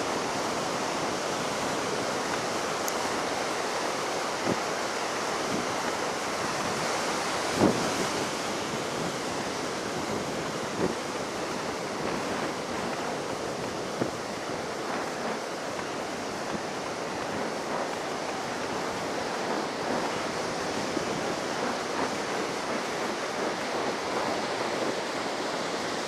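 Ocean surf breaking and washing up the beach in a steady roar, a heavy swell left by a passing typhoon, with wind on the microphone. Now and then a brief thump.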